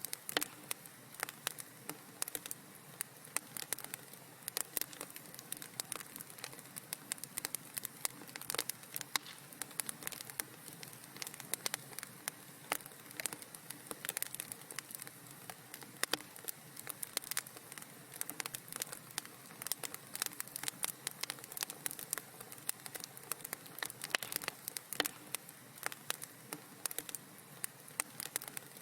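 Wood fire crackling in a fireplace: a dense, irregular run of sharp pops and snaps over a low hiss.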